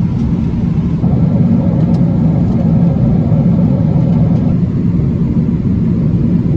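Steady cabin noise of an Airbus A330-300 in flight: a deep, even rumble of engines and airflow with a faint steady hum.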